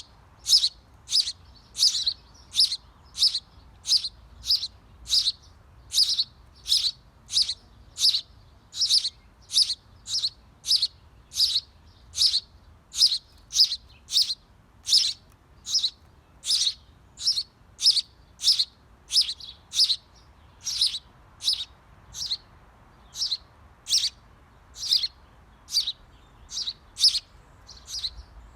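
A small bird chirping over and over in a steady rhythm, about two short, high chirps a second.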